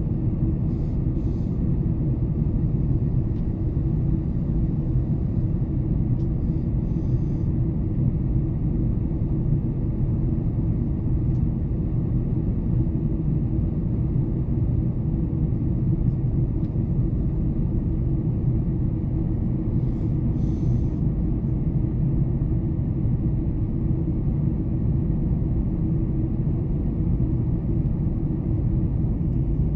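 Steady low rumble of a Boeing 747-400's engines and airflow heard inside the passenger cabin, with a few faint ticks.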